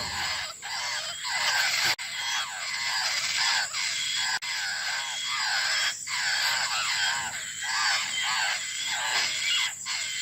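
Young laughingthrush chicks begging for food from their mother: several birds giving repeated calls that rise and fall in pitch, two or three a second, overlapping without a break.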